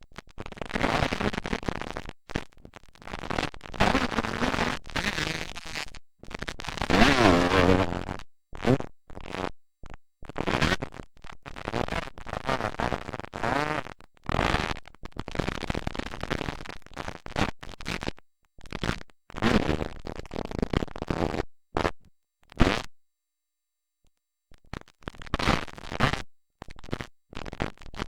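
Motocross dirt bike engines revving on the track, pitch climbing and falling, loudest about 7 seconds in. The sound cuts out abruptly to silence again and again.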